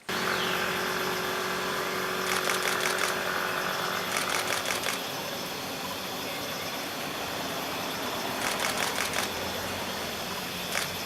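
A camera shutter firing in continuous bursts, four short runs of rapid clicks, over a steady background hum.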